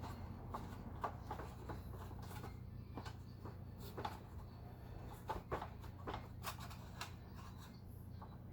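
Irregular light clicks, taps and rubbing from hands handling small hard objects, over a steady low hum.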